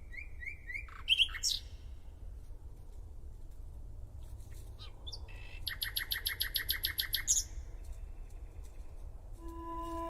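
Common nightingale singing in separate phrases: a few quick rising whistles, a loud phrase about a second in, then after a pause a rapid run of repeated notes lasting nearly two seconds. Sustained musical tones come in near the end.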